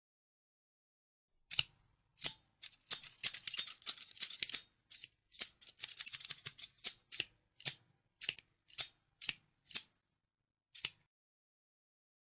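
Scissors snipping: a run of crisp snips starting about a second and a half in, coming thick and fast for a few seconds, then thinning to single snips about half a second apart before stopping near the end.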